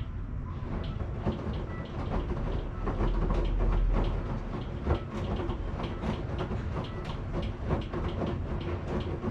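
Washing machine running: a low rumble with frequent irregular clicks and knocks, swelling louder for about a second in the middle.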